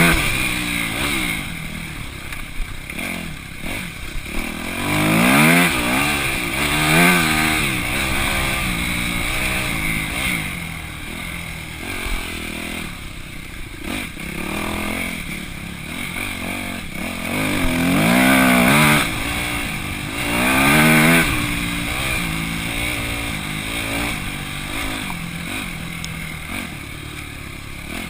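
Single-cylinder four-stroke engine of a Yamaha YZ250F dirt bike being ridden, heard from the rider's chest. The revs rise and fall again and again as the throttle is worked through the gears, with the strongest climbs about five, seven, eighteen and twenty-one seconds in.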